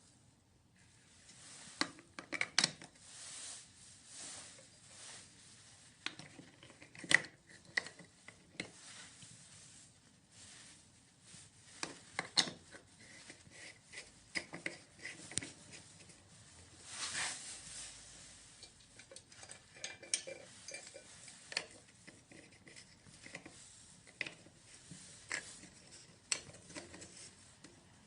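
Small hard parts of a faucet cartridge and fittings being handled and worked on by hand: irregular clicks, clinks and light scraping and rubbing, with a brief hiss about seventeen seconds in.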